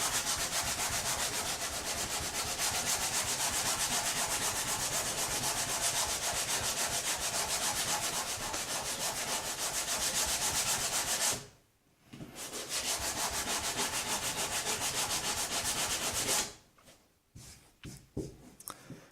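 120-grit sandpaper on a hand sanding block rubbed back and forth along the grain of a piece of timber in quick, even strokes, taking off machining lines and surface blemishes. The sanding pauses for about a second near the middle, starts again, and stops a few seconds before the end, followed by a few faint knocks.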